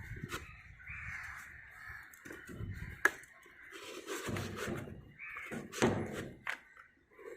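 Crows cawing repeatedly in the background, with a sharp click about three seconds in and a few knocks and thumps as the helmet's foam liner is pressed into its hard shell.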